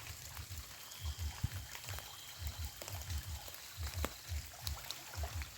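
Water trickling and pouring, with scattered small clicks over a fast, uneven low thudding.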